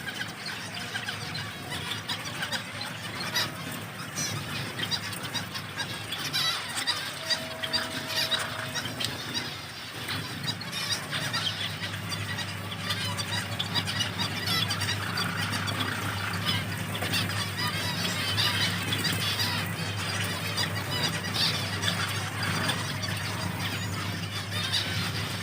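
Many small finches calling together in an aviary: a dense, continuous chatter of short nasal calls. Under it runs a steady low hum that grows stronger about halfway through.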